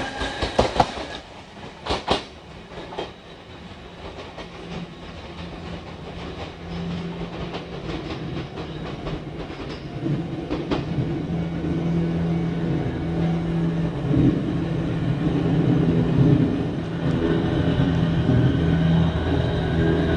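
Electric commuter trains on the Tobu Noda Line. Wheel clicks come from the tail of a train passing close at the start. Then another train approaches over the points and passes, its steady motor hum and wheel noise rising from about halfway through.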